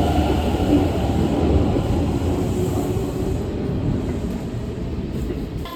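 Steady low rumbling noise of a vehicle in motion, with no distinct events.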